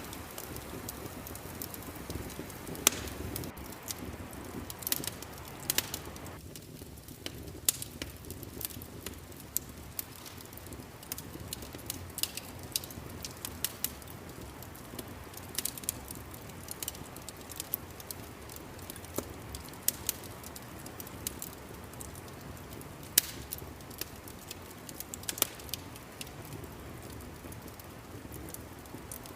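Wood fire crackling: irregular sharp pops and snaps, a few much louder than the rest, over a steady low rush.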